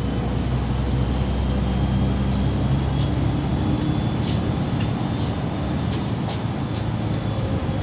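MAZ 203.065 city bus driving, heard from inside: diesel engine hum and road noise, with the engine note dropping away about two-thirds of the way through as it eases off. A few sharp rattling clicks come from the cabin.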